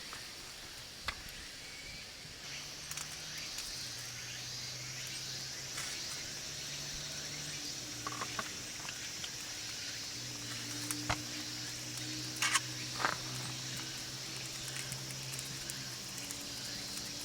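Yakitori sizzling over a wood campfire: a steady hiss with scattered crackles and pops, a few louder pops about two-thirds of the way through. Soft music with long held low notes plays underneath.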